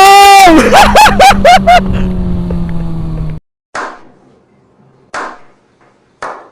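Kawasaki ZX-25R 250 cc inline-four motorcycle engine revving very high in one sharp rise and fall, then four or five quick throttle blips, then settling to a steadier lower note. The engine sound cuts off abruptly about three and a half seconds in, leaving near quiet broken by a few short noise bursts.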